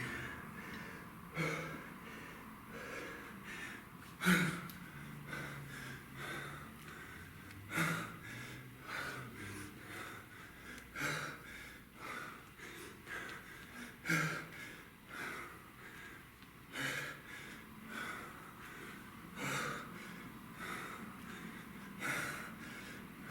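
A man breathing hard under exertion during kettlebell reps, with a sharp, forceful exhale every two to three seconds over quieter panting.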